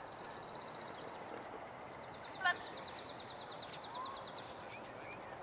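A songbird's rapid, high trill of about ten notes a second, heard twice, with the second run longer. A brief, louder chirp comes about two and a half seconds in.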